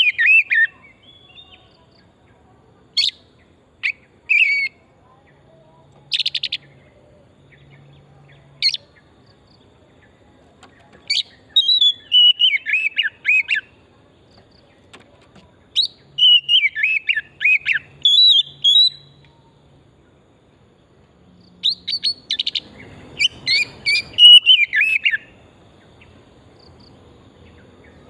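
Oriental magpie-robin (kacer) singing in separate bouts of quick whistled and chirping notes, many of them falling in pitch, with pauses of a second or more between bouts.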